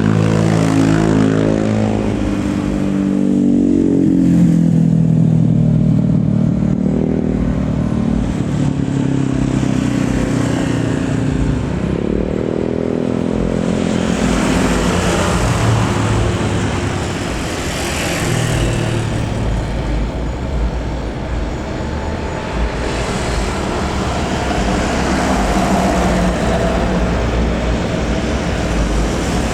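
Airliner engines running loud and continuous as a plane passes close by, their pitch sliding about halfway through.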